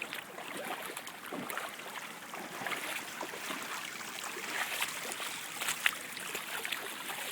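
Floodwater running and trickling, with small irregular splashes throughout.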